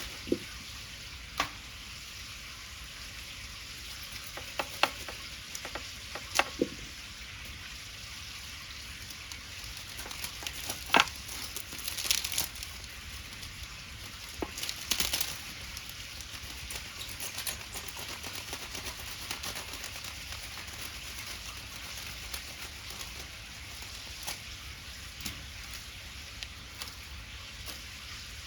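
Wood bonfire burning, with a steady sizzling hiss and sharp crackles and pops at irregular intervals. Two brief louder rushes of noise come about midway.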